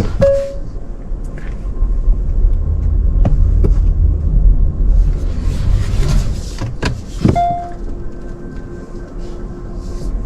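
Car engine running with a low rumble while the car is moved, with a few sharp clicks and two short beeps, one just after the start and one about seven seconds in.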